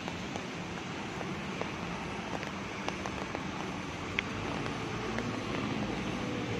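Steady hiss of rain on a wet street over the low hum of road traffic, with occasional sharp drips ticking close by.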